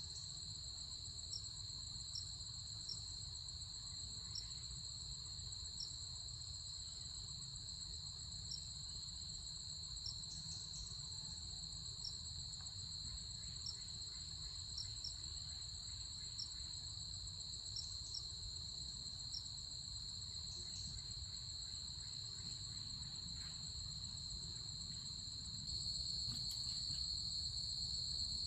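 Insects chirring in a steady, high-pitched continuous trill, with faint ticks about once a second. There is a low hum underneath, and the trill grows louder near the end.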